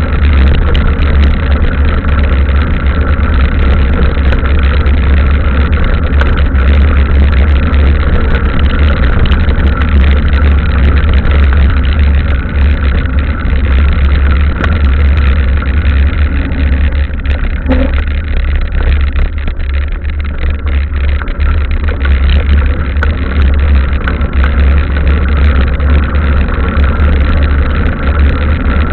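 Loud, steady low rumble of wind and riding noise on the microphone of a camera carried on a mountain bike riding a trail in the rain.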